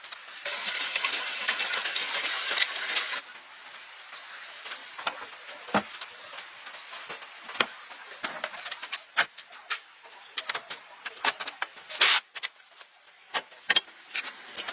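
Repair work on a truck: a hiss lasting about three seconds, then scattered sharp clicks and knocks of tools and parts being handled.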